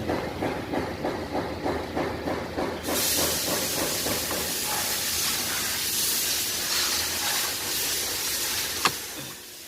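A quick run of short, evenly spaced rasps, about four a second, for the first three seconds, then a loud steady hiss for about six seconds, with a single sharp click near the end.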